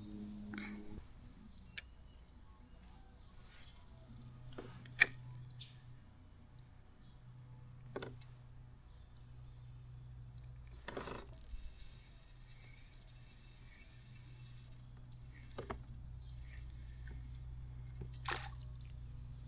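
Steady high-pitched insect chorus, like crickets, droning on one pitch. A few short knocks and clicks come through it, the sharpest about five seconds in.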